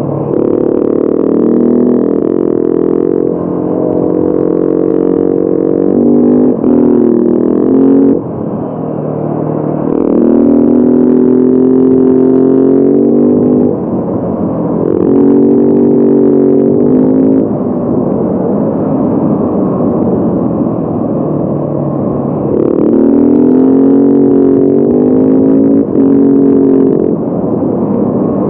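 Motorcycle engine running under way, its note holding steady for a few seconds at a time and then dropping or shifting in pitch about every four to five seconds as the revs change between gears.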